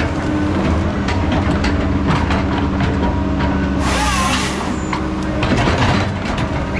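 Heavy logging machine's diesel engine running steadily under many metal clanks and knocks, with a short burst of hiss about four seconds in.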